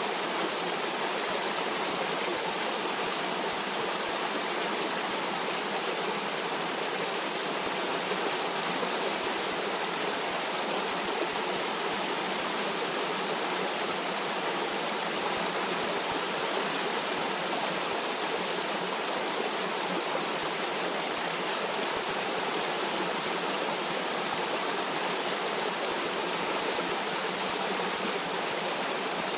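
Water of a stream running over rocks, a steady even rush of noise with no change.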